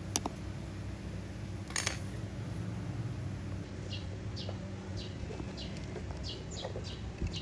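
A bird chirping, short falling notes repeated about twice a second from about halfway through, over a steady low hum. A click at the start and a brief rustle about two seconds in.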